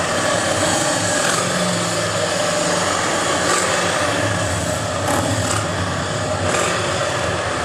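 Steady engine noise from Harley-Davidson motorcycles running nearby, with a distant Formula 1 car's engine carrying over them.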